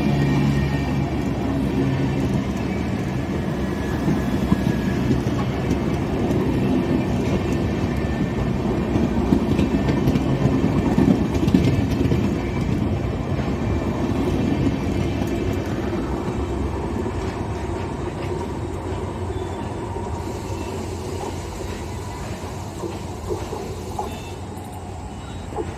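Passenger train coaches running close past, with wheels knocking over the rails; the sound fades over the last several seconds as the end of the train pulls away.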